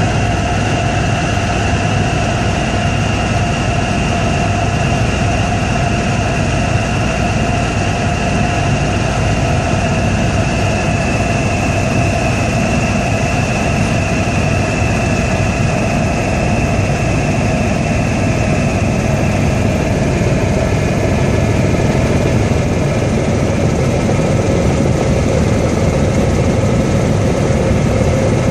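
Helicopter turbine and rotor running steadily, a low rumble under a whine that drifts slightly lower in pitch.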